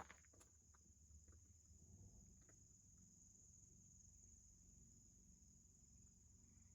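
Faint, steady high-pitched trill of crickets in the prairie, with a few soft footsteps on the trail in the first couple of seconds.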